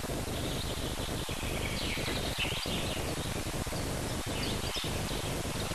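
Small birds chirping in short, gliding calls a couple of times, over a steady hiss.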